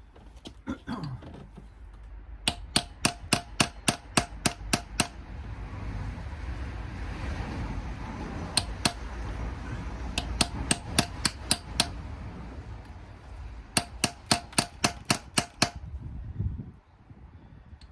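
Hammer striking the edge of a metal plug in an engine block to flip it loose, in three quick runs of about four ringing metallic taps a second with pauses between. A low rumble sits underneath through the middle of the stretch.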